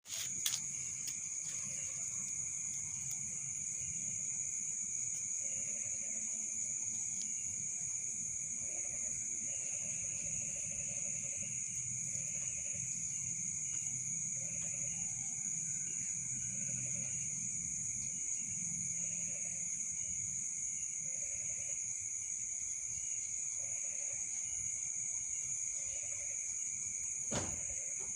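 Insects chirring steadily in a high, unbroken drone, with a fainter lower tone beneath it. A sharp click sounds just after the start, and another comes near the end.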